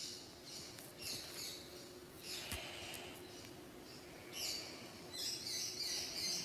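Small birds chirping in repeated faint bursts over low ambient noise.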